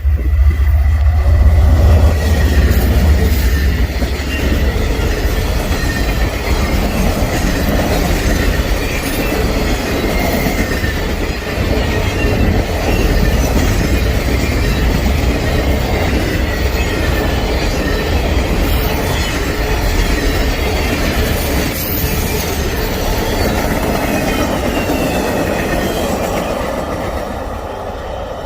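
Freight train rolling past close by: a steady, loud rumble and rattle of wheels on rail, loudest in the first few seconds, with a faint high squeal of wheels against the rail at times.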